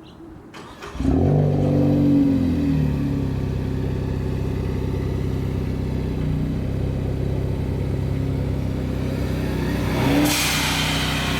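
Ford Focus ST's turbocharged 2.0-litre four-cylinder engine starting about a second in, flaring and then settling into a steady idle through the exhaust. Near the end it gives a short rev with a burst of hiss.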